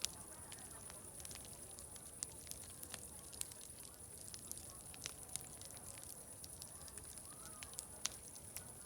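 Wood fire crackling, with irregular sharp pops scattered through it, over a steady high hiss and faint distant chatter.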